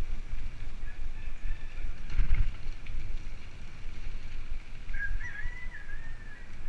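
Wind buffeting the microphone during a bicycle ride, a steady low rumble, with a sharp knock about two seconds in and a short wavering high whistle-like tone about five seconds in.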